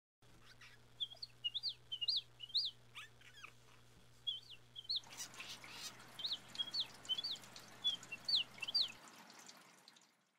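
A songbird singing: short, high chirping notes in quick repeated phrases. About halfway through, a steady rushing hiss comes in underneath, and a faint low hum cuts out near the end.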